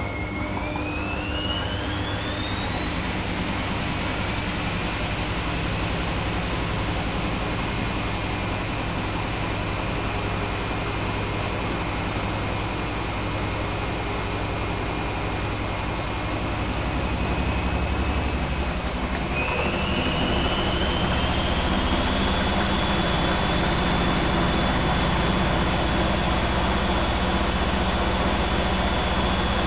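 Arçelik 5900E washing machine spinning after the second rinse: the motor's whine climbs in pitch as the drum speeds up, then holds steady over a low rumble. About two-thirds of the way in the whine dips and climbs again, and the rumble grows louder as the spin steps up to a faster speed.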